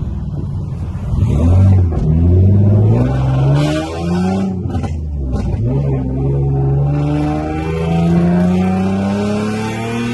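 Car engine accelerating hard through the gears. Its pitch climbs, drops at gear changes about two, four and a half and six seconds in, then rises slowly and steadily.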